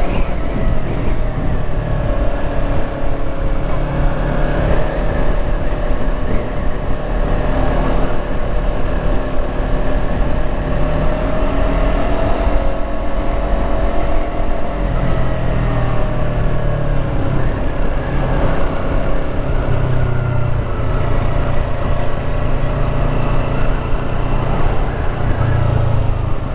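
Yamaha R3's parallel-twin engine running under way, its pitch drifting gently up and down with road speed, over steady wind and road noise.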